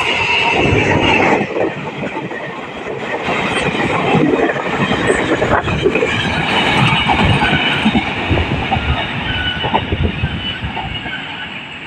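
Train passing close by: steady wheel-on-rail noise with repeated clacks as the wheels cross rail joints, and a high ringing from the wheels that is strongest in the first second and a half.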